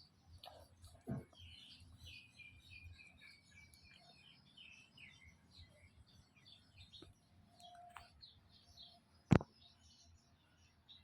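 Many short, high chirping calls in quick succession, with a sharp knock about nine seconds in that is the loudest sound and a softer knock about a second in.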